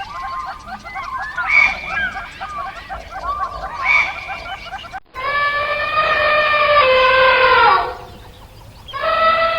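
Many overlapping short chick-like cheeps and chirps. After an abrupt cut about five seconds in, a rooster crows twice, each crow long and held before falling in pitch at the end.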